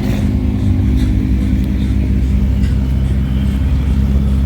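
Car engine running steadily, a low even drone with no revving.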